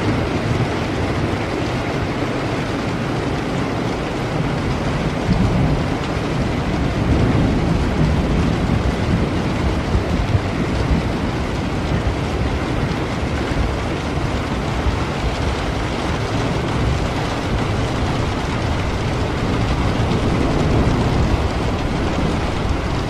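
Steady heavy rain falling, with low rolls of thunder swelling and fading a few times underneath.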